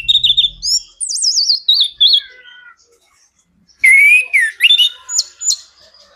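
Orange-headed thrush (anis kembang) singing loudly: a phrase of varied high whistles ending in a wavering trill that slides downward, then after a short pause a second phrase of rising and falling whistles and sharp notes.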